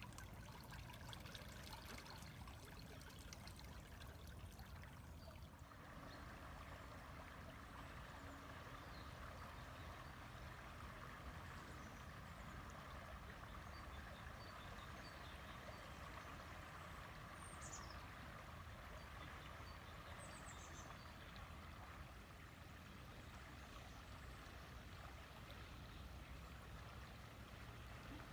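River water running steadily. Two short, high, falling bird chirps come about two-thirds of the way through.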